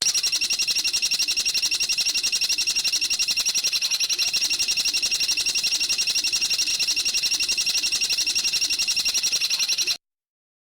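A bird's rapid, high-pitched trill of very fast, even pulses, held unbroken for about ten seconds and then cutting off abruptly.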